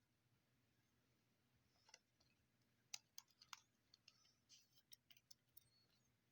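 Faint handling sounds of trading cards in plastic sleeves and packaging: a scatter of small sharp clicks and brief light rustles.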